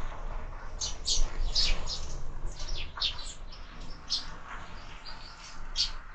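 Sparrows chirping: many short, sharp chirps in an irregular stream.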